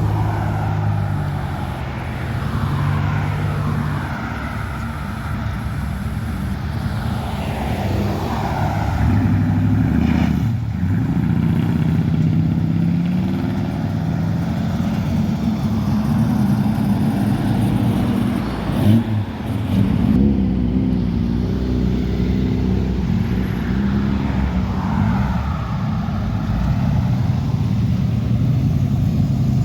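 Car engines running and revving as cars drive off one after another, their pitch rising and falling. A short, sharp sound about nineteen seconds in.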